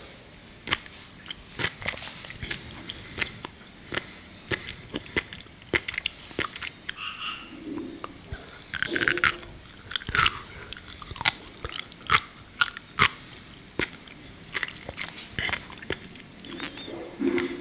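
Close-miked chewing of sea grapes (Caulerpa seaweed): a dense, irregular stream of crisp little pops and clicks as the beads burst in the mouth, with wet mouth sounds.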